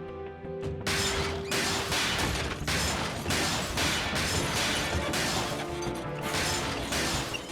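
Cartoon soundtrack music that turns, about a second in, into a run of loud crashing, mechanical-sounding hits, about two a second.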